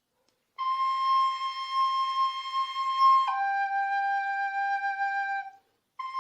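A solo flute playing long, steady held notes: one note for nearly three seconds, then a step down to a lower note held for over two seconds. After a brief pause the first note returns near the end.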